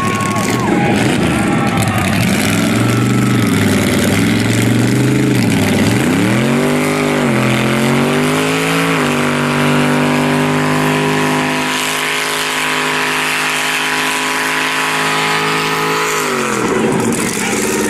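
Truck engine revving hard during a burnout. The revs climb and dip a few times, then hold high and steady for about seven seconds before dropping off near the end.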